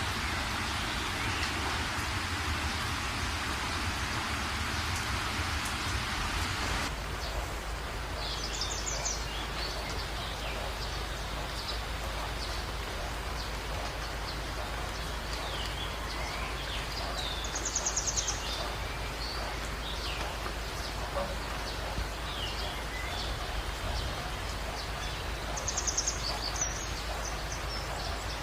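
Steady rain for about seven seconds, then an abrupt change to a thinner, lighter rain ambience with birds chirping. A short rapid trill comes three times, about eight seconds apart.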